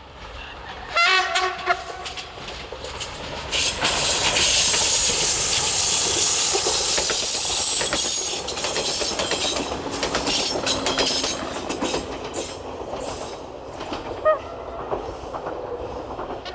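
A Stadler GTW 2/6 metre-gauge diesel multiple unit, two sets coupled, gives a short horn blast about a second in, then passes close by. The rush of wheel and engine noise is loudest a few seconds in, and the wheels click over the rail joints as it fades toward the end.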